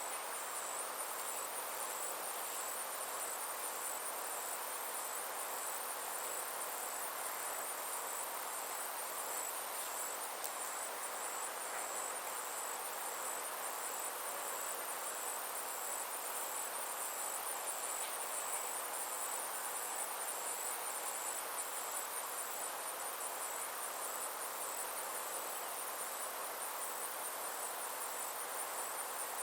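Summer insect chorus: a high, rapidly pulsing trill held steady without a break, over a soft even hiss of outdoor background noise.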